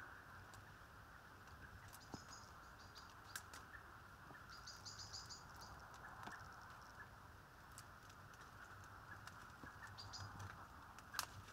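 Faint, quick runs of high bird chirps, heard three times, over a low steady outdoor hiss, with a few light clicks.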